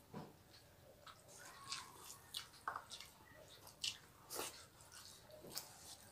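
Faint eating sounds of people eating rice and curry with their hands: chewing and wet mouth clicks, irregular and short, a couple a second.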